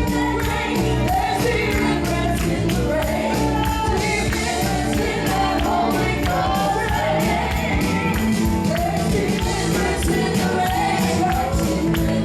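Gospel music: singing over a band, with a tambourine or drums beating a steady fast rhythm.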